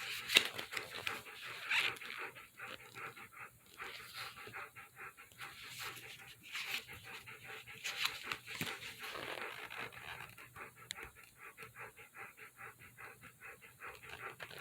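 A pet dog panting in a rapid, even rhythm, with a sharp click about half a second in.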